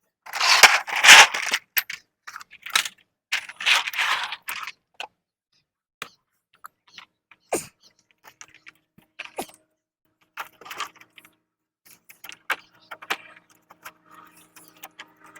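Two loud bursts of rustling and jangling in the first few seconds, followed by scattered light clicks and taps.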